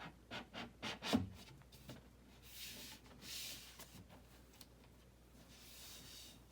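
A freshly assembled wooden TV shelf being handled: a quick run of light knocks, then two stretches of soft rubbing and scraping as it is moved.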